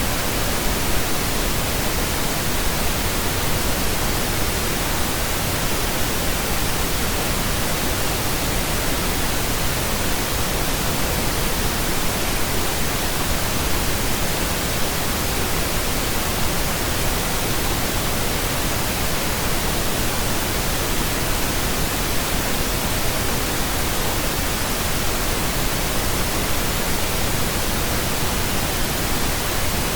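Steady pink noise: an even, unchanging hiss across all pitches, with no tones or events.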